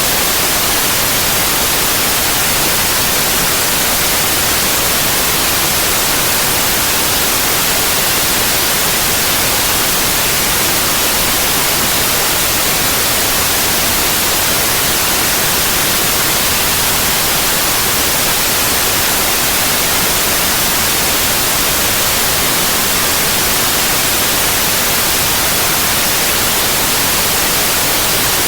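Synthetic white noise: an even, steady hiss spread across the whole frequency range with no changes or interruptions.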